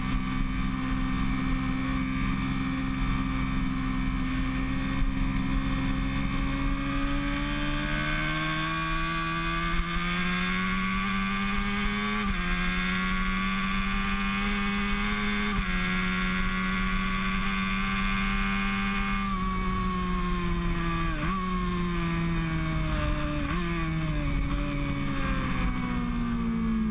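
Sport motorcycle engine at track speed, revs climbing steadily, with two upshifts midway where the pitch drops abruptly. It then falls away under braking, with quick downshifts in the last third.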